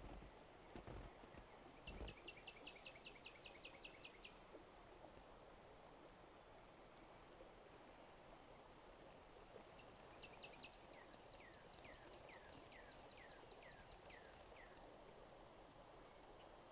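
A songbird singing two phrases over quiet outdoor background. The first, about two seconds in, is a rapid run of about a dozen falling whistled notes. The second, around ten seconds in, is a quick run of notes that slows into falling slurred whistles. A couple of soft thumps come in the first two seconds.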